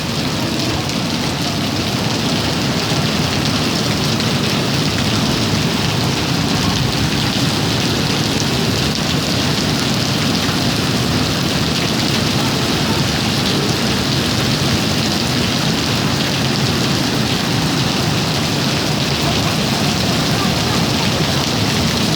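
Heavy rain mixed with hail pelting down, a steady, dense patter of many small impacts.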